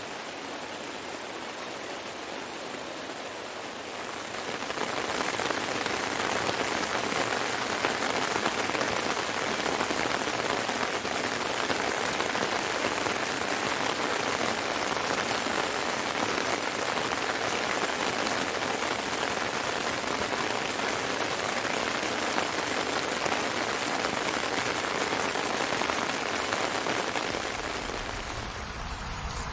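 Heavy rain falling steadily; it grows louder about four seconds in and eases slightly near the end.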